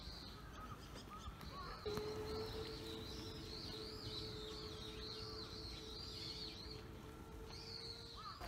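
Small birds chirping and twittering in quick wavering runs. A steady low tone sets in about two seconds in and stops just before the end.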